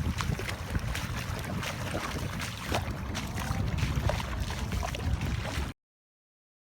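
Wind buffeting the microphone outdoors: a steady, rough low rumble with scattered small clicks, cutting off abruptly to silence near the end.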